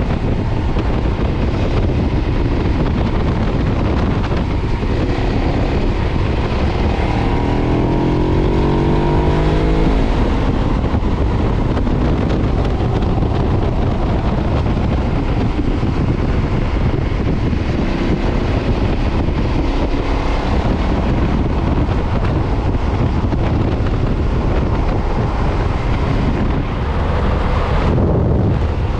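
KTM 990's V-twin engine on its stock exhaust, running under way on a motorcycle. About seven seconds in it revs up for a few seconds with a rising tone as the bike accelerates, then holds a steady drone.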